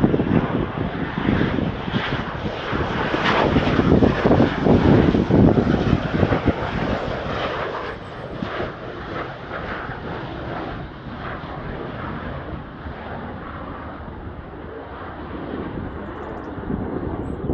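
Panavia Tornado GR4's twin Turbo-Union RB199 jet engines passing close by on its landing approach, loudest a few seconds in, then easing to a steady rumble.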